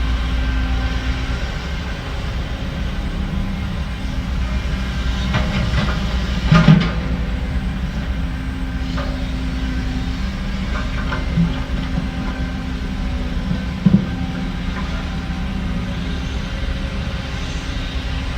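Heavy diesel earthmoving machinery running steadily, with three short knocks over it, the loudest about six and a half seconds in.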